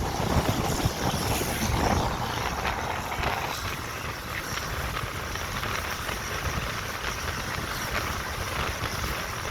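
Ordinary passenger train running: a steady rumble of wheels on track, loudest for the first two seconds, then settling a little quieter.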